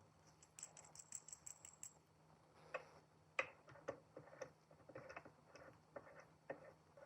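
Faint, irregular light clicks and taps: a quick run of small clicks in the first two seconds, then scattered sharper knocks.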